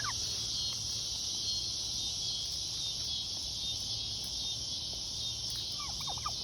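A steady, high-pitched chorus of insects throughout. A tom turkey gobbles briefly right at the start and again near the end.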